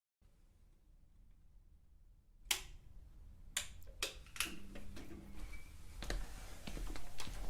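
Irregular sharp clicks and taps over a faint low hum, starting a couple of seconds in and growing busier toward the end.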